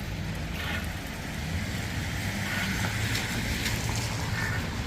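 Wet-street traffic: a steady low rumble, with the hiss of tyres on wet road swelling and fading about halfway through.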